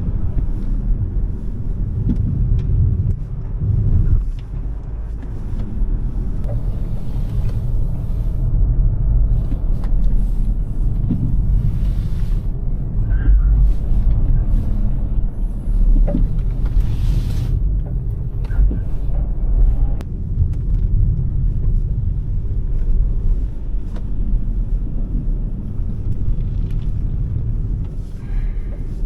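Steady low road and tyre rumble from a Smart #3 electric car on the move, swelling and easing slightly as it drives.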